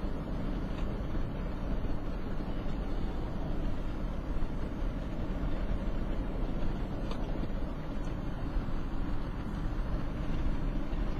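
Steady road and engine noise inside the cabin of a moving truck, a low, even rumble without change.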